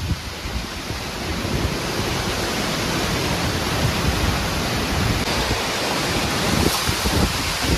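Heavy hurricane rain and wind pouring down as a steady, even hiss.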